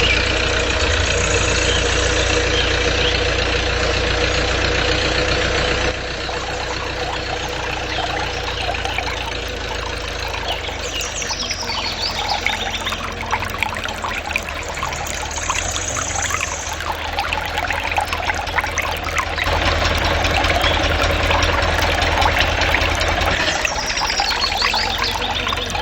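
A small motor running steadily, its sound shifting abruptly about six seconds in and again near twenty seconds.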